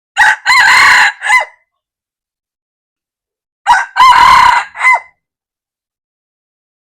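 Red junglefowl rooster crowing twice, about three and a half seconds apart. Each crow is short, about a second and a half, in three parts: a brief opening note, a longer middle and a clipped final note.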